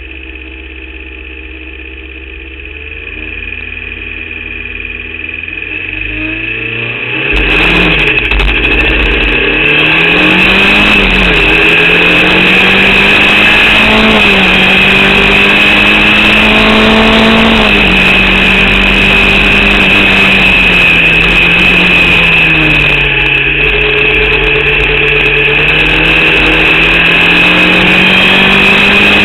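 Formula Vauxhall 8v race car's four-cylinder engine heard on board, its pitch rising and dropping back again and again through the revs, with a steady high whine over it. About seven seconds in it becomes suddenly much louder. The engine has a misfire, which the driver blames along with an alternator/battery fault for its lack of power.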